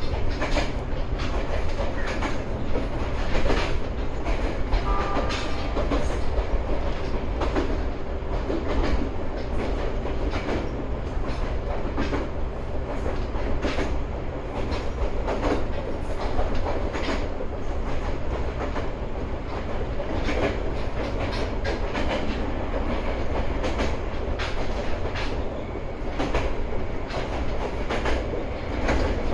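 Ryutetsu 5000-series electric train running along the line, with a steady rumble and wheels clacking irregularly over rail joints.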